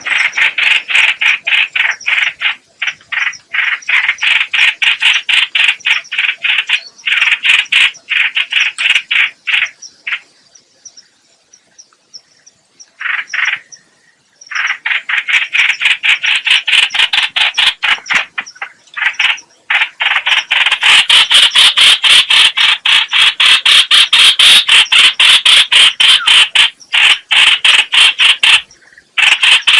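Lure recording of the bird known in Vietnamese as trao trảo or chao chảo: a loud, fast chattering of short repeated notes, several a second, in long runs with a pause of about four seconds a little before the middle.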